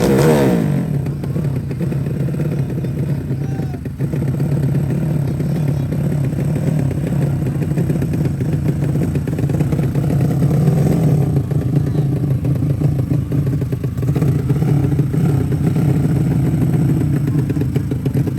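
Small four-stroke underbone motorcycle engines running and revving, with a sharp drop in engine pitch right at the start as one bike comes off the throttle or passes.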